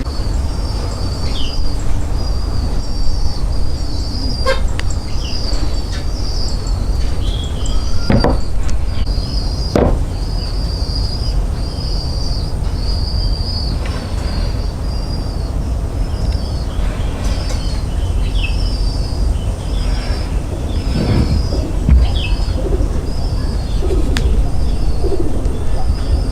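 Small birds chirping repeatedly in short high notes over a steady low rumble, with a couple of sharp knocks about a third of the way through.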